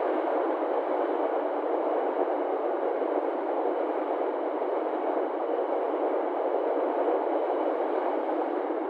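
Passenger train coaches rolling past at speed, a steady rushing noise of wheels on rails.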